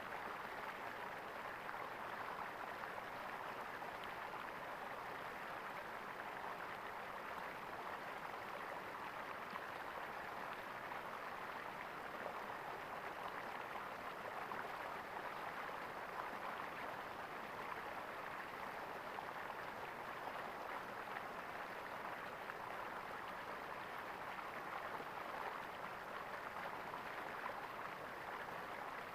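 Flowing water gurgling steadily, like a small stream.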